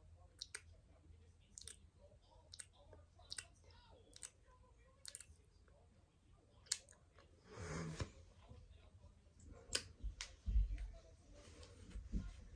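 Makeup items being handled and tapped: a string of sharp clicks, about one a second, then a short rustle near the middle and a few dull thumps near the end.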